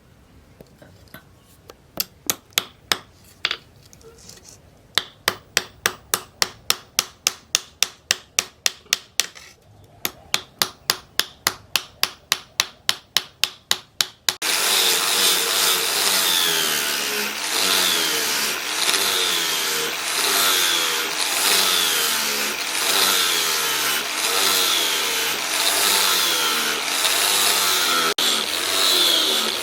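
A hand tool working a piece in quick, even strokes, about three a second. About halfway through, a power tool starts loudly and runs on, its pitch dipping and recovering about once a second as it is pressed into the work.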